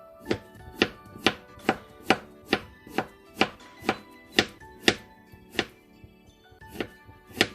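Knife slicing zucchini against a cutting board: crisp, even cuts about two a second, with a brief pause near the end.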